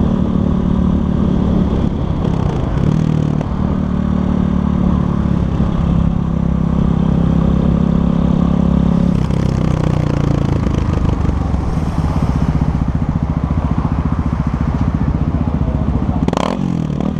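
Yamaha Lander 250's single-cylinder four-stroke engine running under way, then easing off about nine seconds in and running slower with distinct pulses as the bike slows. A few sharp clacks sound near the end.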